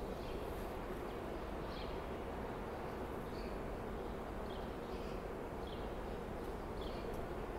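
Steady low hum of a railway platform with parked trains, and a small bird chirping over it, a short high chirp about once a second.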